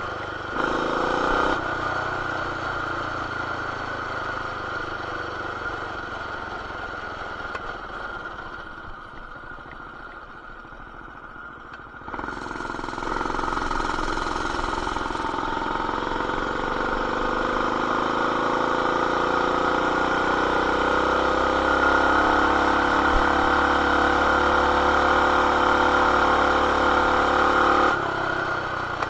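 Single-cylinder engine of a BT200X mini bike with a stage 1 intake, header and RLV exhaust, heard while riding. It winds down off the throttle at first. About twelve seconds in the throttle opens sharply and the engine pulls, its note climbing slowly for some fifteen seconds before the throttle is shut near the end. The sound is muffled by the camera's plastic protective case.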